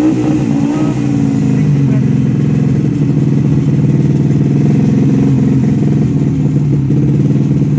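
Motorcycle engine running steadily at a constant speed, with a few brief pitch wobbles about a second in.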